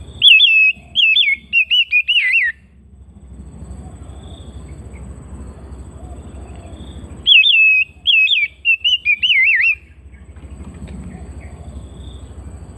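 Oriental magpie-robin (kacer) singing: two loud phrases of quick looping whistled notes, the second about seven seconds after the first, over a low steady background hum.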